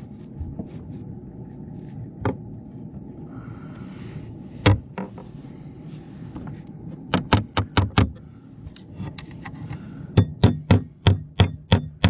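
Hammer blows driving nails while fixing fibre-cement slates: single strikes at first, then a run of about five, and a faster run of about eight near the end, over a steady low hum.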